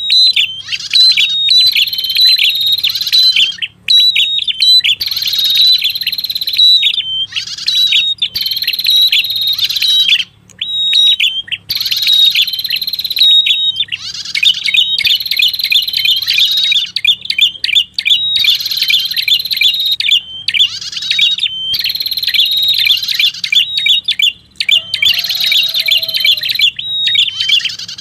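Lure recording of the prenjak kepala merah's song: rapid, high, trilled chirping phrases about a second long, repeated over and over with short gaps. A steady low hum runs underneath.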